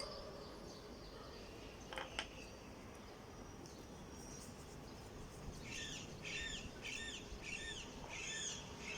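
A bird calling in the background: a run of short, repeated chirps, about two a second, beginning a little past halfway. There is a brief faint tap about two seconds in.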